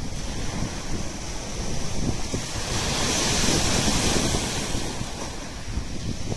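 Black Sea surf breaking and washing on the shore, a continuous rush that swells about halfway through, with wind buffeting the microphone.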